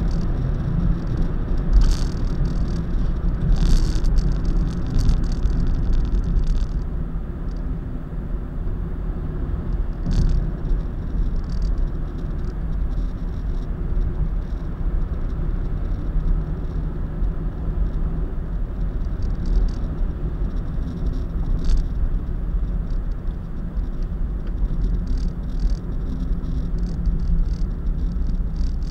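Steady low road and engine rumble of a car driving at expressway speed, heard from inside the cabin, with occasional brief rattles and clicks.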